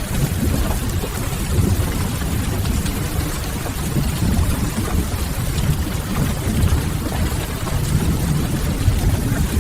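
Steady rain mixed with a crackling wood fire, over a constant low rumble.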